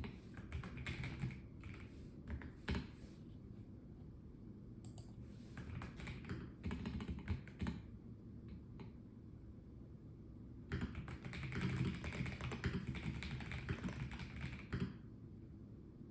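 Typing on a Melgeek Mojo84 plastic-case mechanical keyboard: quick runs of key clicks in three bursts, with short pauses between them.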